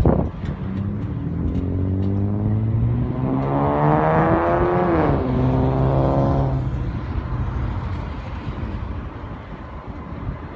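An engine passing close by: its humming note builds and rises slightly, drops sharply in pitch as it goes past about five seconds in, then fades away.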